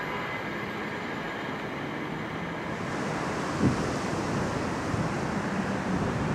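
A train passing on the line: its rolling and rushing noise swells about halfway through, with a low thud just after.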